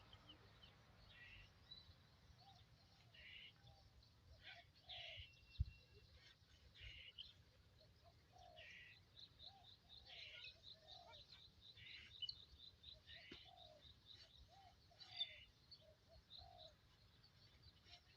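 Faint birdsong: several birds chirping, with a fast run of high notes, about five a second, in the middle and lower, softer calls in between. A single low knock about five and a half seconds in.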